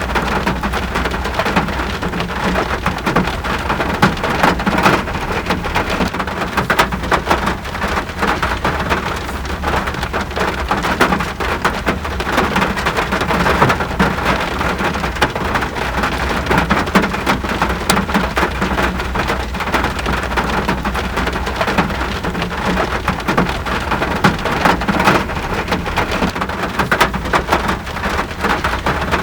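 Steady rain falling: a dense, even hiss made up of many individual drops striking close by, with a steady low rumble underneath.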